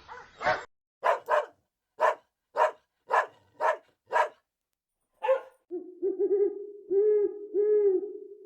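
A puppy yapping in short, sharp barks about twice a second, about seven in a row, then once more. Then a different young animal gives a steady, low, drawn-out call that swells in a few pulses.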